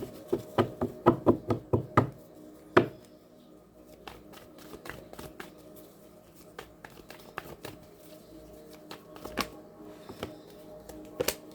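Tarot cards being handled and shuffled: a quick run of sharp taps in the first two seconds, a louder knock near three seconds, then scattered lighter taps, over faint background music.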